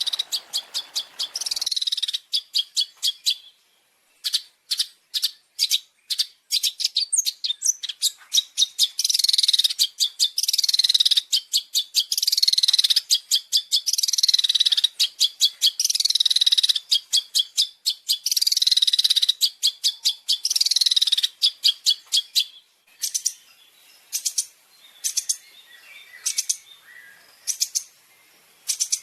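Recorded bird calls: a quick series of sharp, high notes, then a long run of loud, harsh falling calls about one a second, and more spaced sharp notes again near the end.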